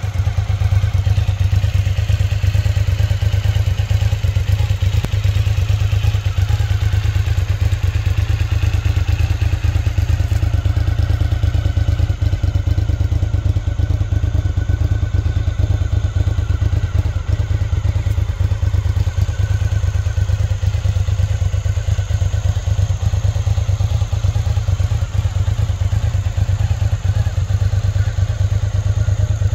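A 2004 Cagiva Xtra Raptor 1000's 996 cc V-twin idling steadily, with no revving.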